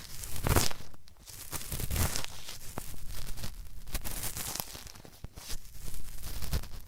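Cotton swab rubbed hard in the left ear, an irregular run of scratchy, crackly strokes that stand for scraping at hard earwax. Two stronger strokes come early and about two seconds in, then many small crackles.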